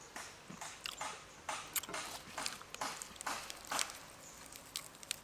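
Close-miked wet chewing of raw beef: irregular mouth smacks and sharp clicks, several a second.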